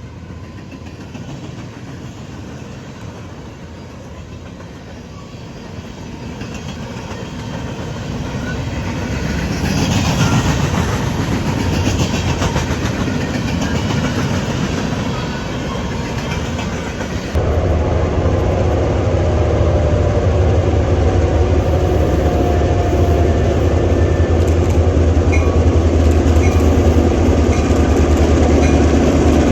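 Train passing on the rails with clickety-clack, the rolling noise building to a loud pass about a third of the way in. About halfway through it switches suddenly to a louder, steady low drone of a locomotive running close by.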